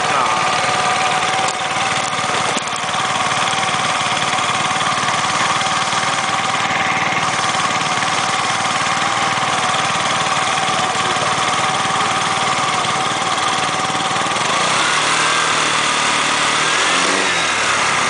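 Car engine idling steadily with a whine over it. Near the end the pitch rises and falls twice as the engine speed goes up and back down. The owner says this engine burns some oil.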